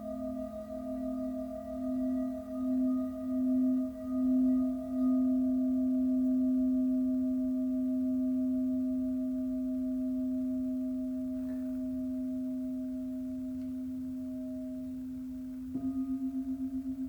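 A crystal singing bowl ringing one steady low tone with a few higher overtones. For the first few seconds it swells and wavers as it is played, then it sustains and slowly fades. Near the end a fresh strike brings in a tone with a quick pulsing beat.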